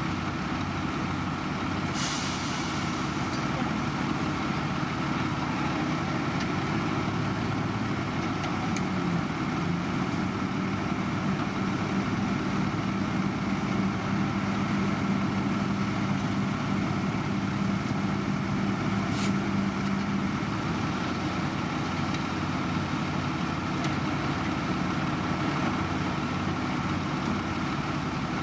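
Heavy diesel construction machinery running steadily, with a short burst of hiss like an air brake release about two seconds in and a sharp tick near the nineteen-second mark. A steady hum tone sits over the engines from about nine to twenty seconds in.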